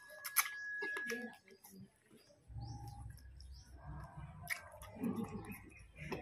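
Wet mouth clicks and lip smacks from chewing raw water snake, then sips and swallows from a glass, with a low rumble of handling behind them from about two and a half seconds in.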